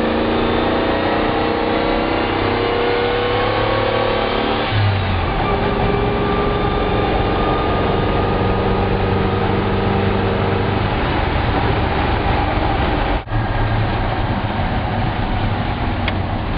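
Chevy Ram Jet 350 small-block V8 driving the truck, heard from inside the cab. The engine pitch climbs under acceleration, drops suddenly about five seconds in, then holds steady.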